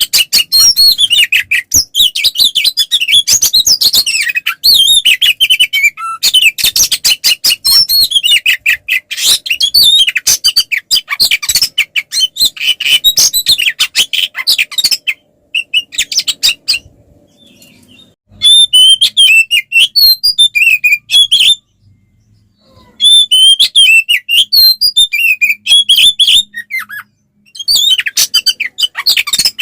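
Oriental magpie-robin (kacer) in full, agitated fighting song: fast, varied runs of loud notes and chattering rattles. The song breaks off for about three seconds halfway through, then twice more briefly before starting again.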